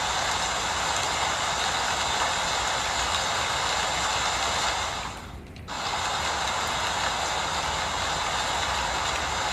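Steady rain hiss, dropping away for about half a second a little past five seconds in before returning.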